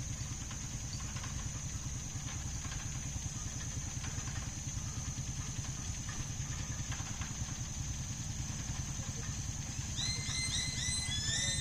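A vehicle's engine idling steadily, with a constant high insect trill above it. About ten seconds in, a bird starts a quick run of repeated rising chirps.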